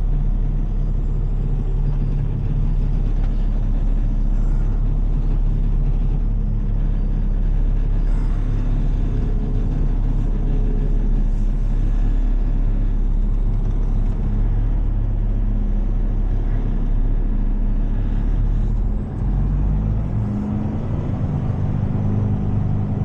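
Heavy tow truck's diesel engine running steadily at low speed, heard from inside the cab, a continuous low drone. About nineteen seconds in the engine note dips briefly and changes, as when the driver lifts off or shifts.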